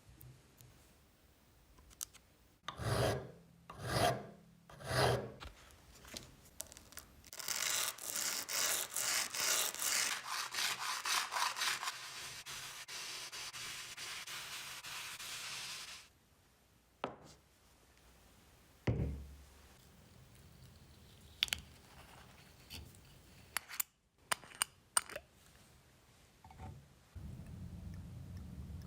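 Rubbing and rasping strokes of hand work on a workpiece: three separate strokes about a second apart, then a run of quick strokes that turns into a steady rasp and stops suddenly, followed by scattered clicks and knocks and a low hum near the end.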